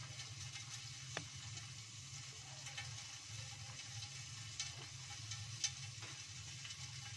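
Green chilies, bird's-eye chilies and shallots frying in oil under the lid of a wok: a steady sizzle with a few sharp pops and spatters, over a low steady hum.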